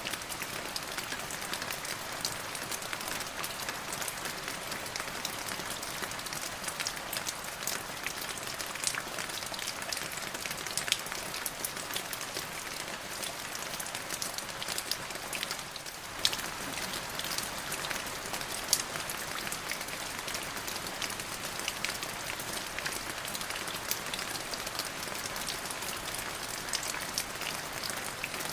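Steady rain falling on a surface, a dense even patter of drops with occasional louder single drops striking nearby.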